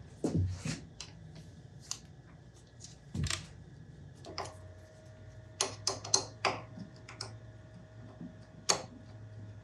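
Scattered sharp clicks and light knocks of a workpiece and tools being handled at a milling machine, over a low steady hum. A faint steady whine comes in about four seconds in.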